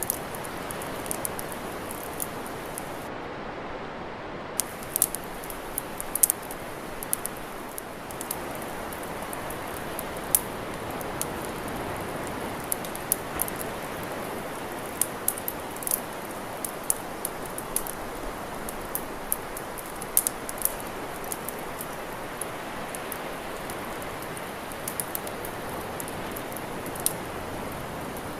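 Wood campfire crackling: sharp, irregular pops and snaps, several a second at times, over a steady rushing hiss.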